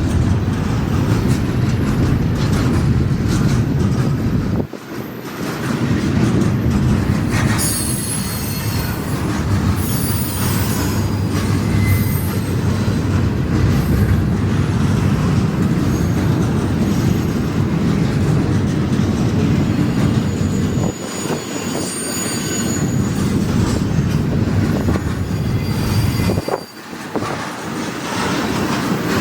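Intermodal freight train's cars rolling past: a steady rumble of steel wheels on rail, with high-pitched wheel squeal now and then. The rumble briefly drops three times, about 5, 21 and 27 seconds in.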